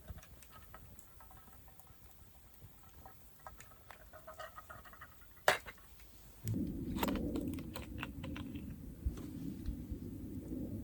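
Light scattered clicks and taps with one sharp click about five and a half seconds in, then a steady low rushing noise with crackles sets in about six and a half seconds in.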